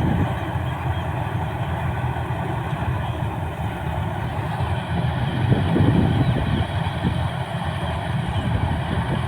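Paddy combine harvester's John Deere diesel engine running steadily, getting louder for about a second around the middle.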